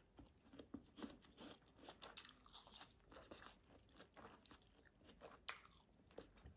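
Faint close-up chewing of a crisp green vegetable, with soft irregular crunches in the mouth.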